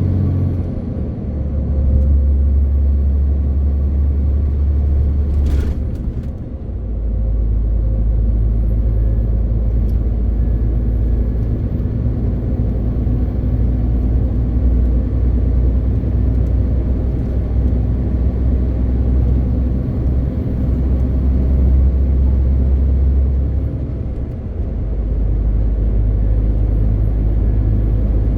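A MAN TGX 18.520 truck's diesel engine runs under way as a deep, steady drone. Its note shifts and the sound dips briefly three times: about a second in, around six seconds in and near the end. There is a single short click about five and a half seconds in.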